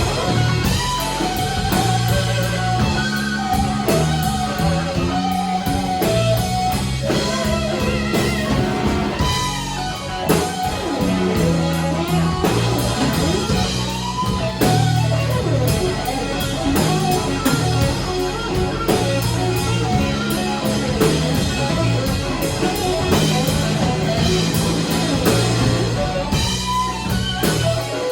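Live blues band playing an instrumental passage: electric guitar soloing with bent notes over bass and drums.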